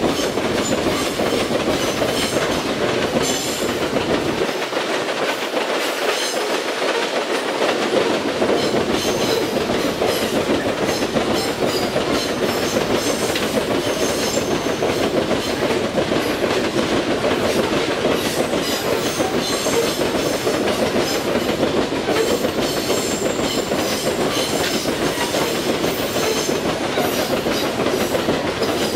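Loaded iron-ore gondola wagons of a freight train rolling past: a steady rumble of steel wheels on rail with the repeated clickety-clack of wheels over the rail joints.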